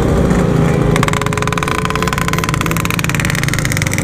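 Yamaha RX-King's two-stroke single-cylinder engine running steadily under way through a stock-style Packing Power exhaust. A steady high tone joins it about a second in.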